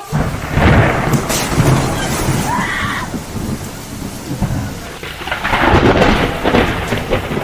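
Thunder rumbling over heavy rain, swelling loudly about a second in and again around six seconds.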